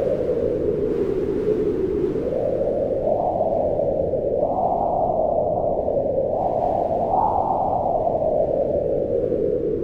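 Wind blowing continuously, a rushing noise whose pitch slowly rises and falls with the gusts, highest about halfway through.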